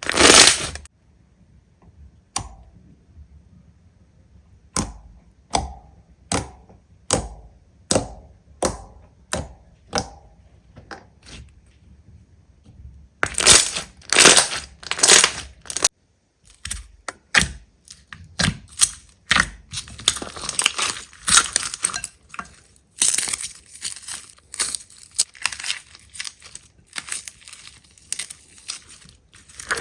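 Slime being handled: a run of crisp clicks or pops, about one every 0.6 to 0.8 s, then louder crunching and dense crackling as it is squeezed and pressed.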